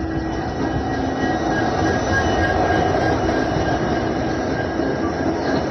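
Express train's coach running on the track, heard from inside the coach: a steady rumble and rattle of the wheels with faint thin whining tones over it, growing a little louder.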